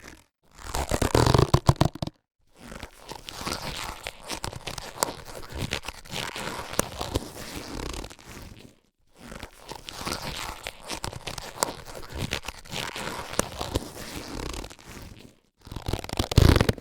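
Latex surgical gloves being handled: the latex rubbing with many small clicks, in bursts broken by brief pauses. The handling is loudest near the start and again near the end.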